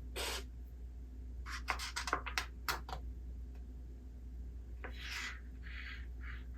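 Paper rustling, with a few soft swishes and a run of small sharp clicks and taps about halfway, from a book being handled while reading.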